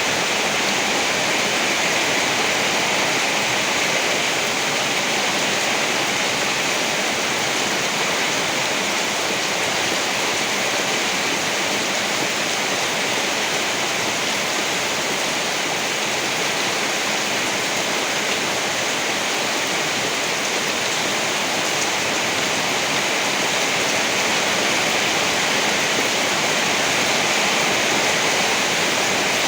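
Rain falling steadily, an even hiss with no change and no thunder.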